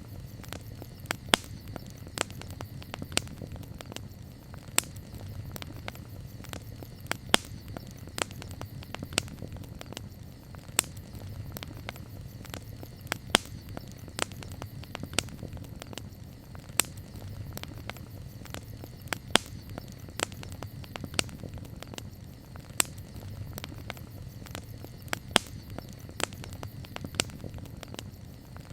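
Campfire crackling: irregular sharp pops and snaps, a few each second, over a steady low rumble of burning.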